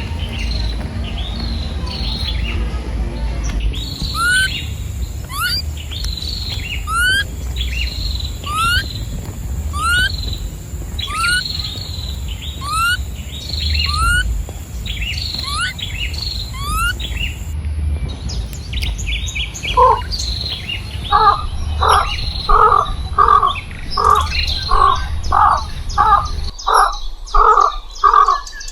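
Birds calling: repeated short chirps about once a second, then, from about two-thirds of the way in, a lower call repeated quickly about twice a second.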